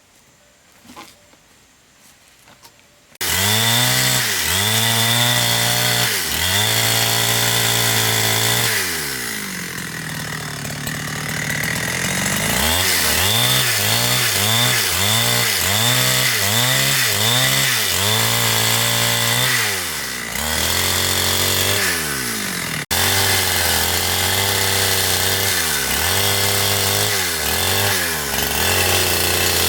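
About three seconds of near silence, then a two-stroke chainsaw running loud, its engine pitch rising and falling again and again as the throttle is worked. For a few seconds around the middle the pitch drops lower and steadier as the saw bogs under load in the cut.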